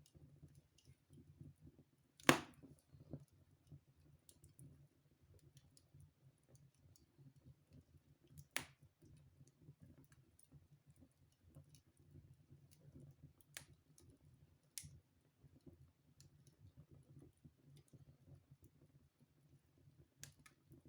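Wood fire burning in a fireplace: a faint, steady crackle with scattered sharp pops, the loudest about two seconds in.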